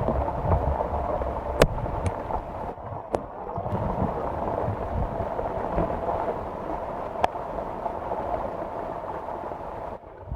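Heavy rain with rainwater running and gurgling, a steady rushing noise with low wind buffeting on the microphone and a few sharp ticks.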